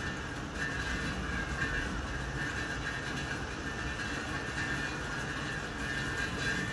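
Heavy rain falling with wind through the trees: a steady, dense hiss.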